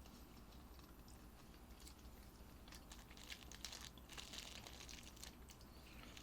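Faint eating sounds close to the microphone: a person chewing, with small scattered clicks and crackles that grow busier about halfway through.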